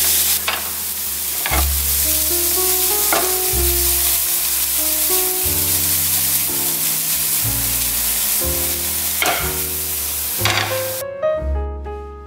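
Corn kernels frying in butter in a pan, a steady sizzle as they are stirred, with a few sharp scrapes of the spatula. The sizzle cuts off suddenly near the end, leaving background music with piano and bass.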